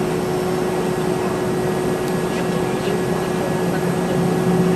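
Steady cabin noise of a Boeing 717 with its Rolls-Royce BR715 turbofans running, an even rushing sound with a constant hum tone, heard from inside the cabin.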